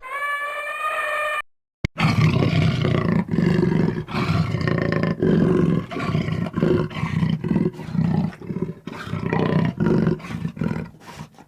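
A large animal roaring and growling: a series of deep, rough roars about a second apart, starting about two seconds in and growing fainter near the end.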